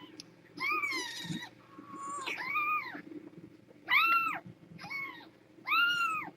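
Neonatal kitten mewing over and over: about six high, arching cries roughly a second apart while it is being stimulated to relieve itself.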